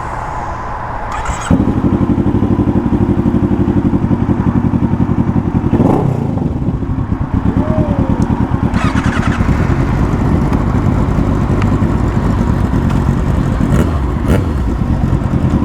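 Motorcycle engine starting about a second and a half in, then idling steadily and close by with an even, rapid pulse.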